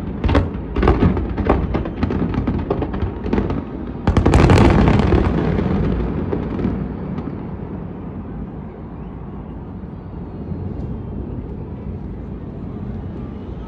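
Aerial fireworks exploding in quick succession: many sharp bangs in the first few seconds, then the loudest, densest volley about four seconds in. That volley rolls away into a fading rumble.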